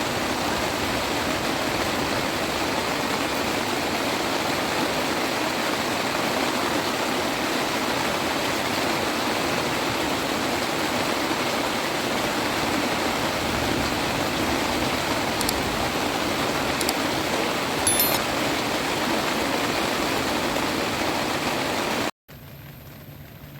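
Heavy rain pouring down steadily as a dense, even hiss. It cuts off abruptly about 22 seconds in, leaving a quieter steady hiss.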